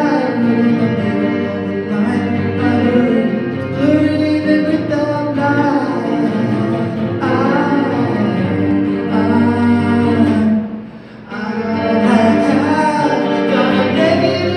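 A song sung over guitar accompaniment, with a brief break about two-thirds of the way through.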